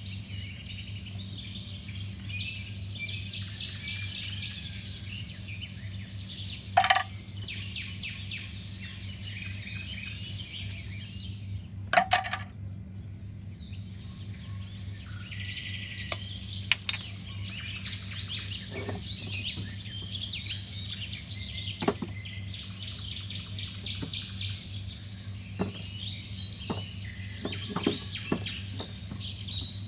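Small birds chirping and twittering continuously over a steady low hum, with a few sharp knocks, the loudest about twelve seconds in.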